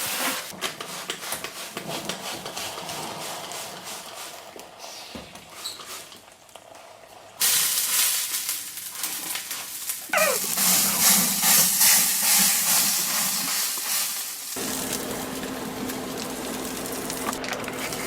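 Crackling and sizzling from items burning inside a running microwave oven, broken by abrupt jumps in level. In the last few seconds a steady low hum runs under the crackle.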